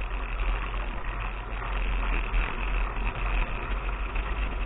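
Steady wind rumble and trail noise picked up by an action camera on a moving mountain bike, with tyres rolling over dirt.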